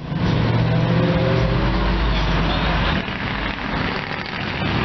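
Car engines running as cars drive past on the road, with a deeper engine rumble swelling from about a second and a half in for a second or two.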